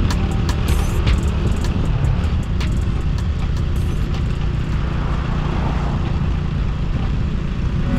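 Motorcycle running on the road with a steady low rumble, with a few sharp clicks in the first few seconds.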